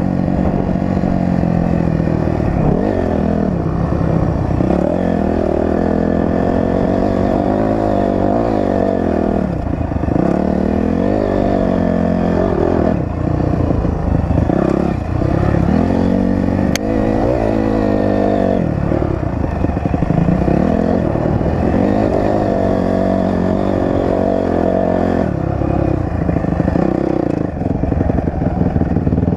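Dirt bike engine running under load while riding, its pitch rising and falling over and over as the throttle is worked and gears change.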